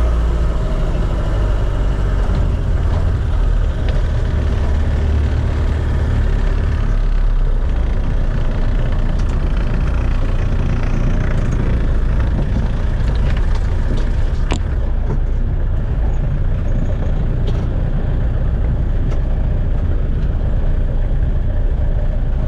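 Vehicle engine running steadily with a low drone, with a few short knocks and rattles.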